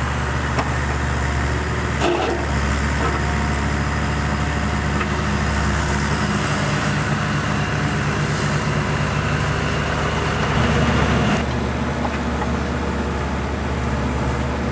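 Bobcat 430G mini excavator's diesel engine running steadily, with a sharp knock about two seconds in and another near the end. It is briefly louder just before the second knock.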